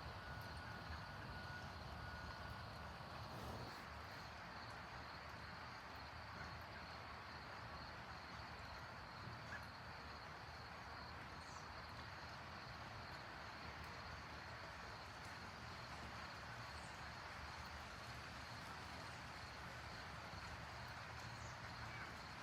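Faint outdoor city ambience: a steady low background rumble under a constant high-pitched hum, with a few short bird chirps now and then.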